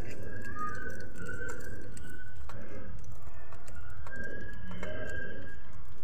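Birds calling in thin, drawn-out whistles, once early and again around the middle, over a steady low rumble.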